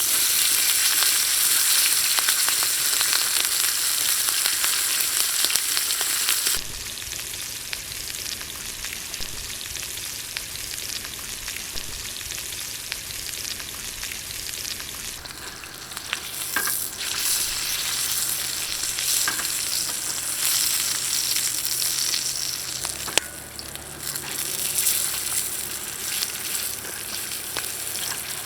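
Steak sizzling on an iron griddle over a wood fire, with scattered sharp crackles and a sharp snap a little before the end. The sizzle is loud at first, drops after about six seconds, then swells again in the second half.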